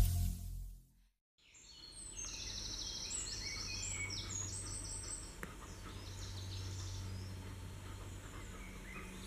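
The tail of the intro music fades out, then after a brief silence small birds sing in woodland, with repeated high trills and short falling phrases over a low steady rumble.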